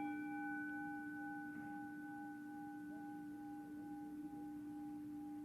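A struck bell ringing on and slowly fading: one low steady tone with several higher, fainter overtones, the highest dying away first.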